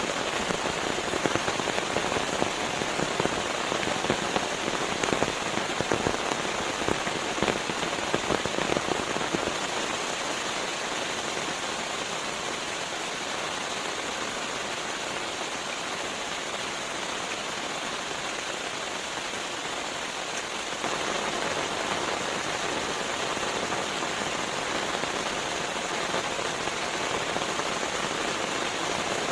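Steady rain falling on a surface: an even hiss with many small drop ticks, thicker in roughly the first ten seconds and smoother after, getting slightly louder about 21 seconds in.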